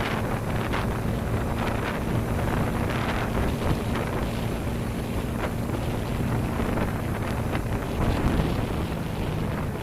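Wind buffeting the microphone of a moving motorcycle, with the bike's engine running steadily underneath as a low hum.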